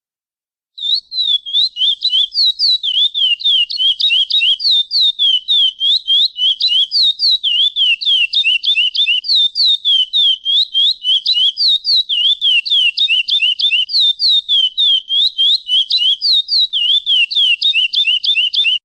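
Chestnut-bellied seed finch (curió) giving a fast, continuous run of short, high whistled notes, each sliding downward, about five a second. It starts about a second in and cuts off abruptly at the end.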